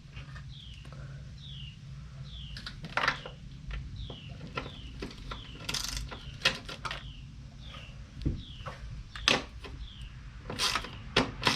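Hand tools working on an engine bracket: scattered metallic clicks and knocks of a ratchet and wrench, denser near the end. A steady low hum runs underneath, and a short falling high chirp repeats about twice a second.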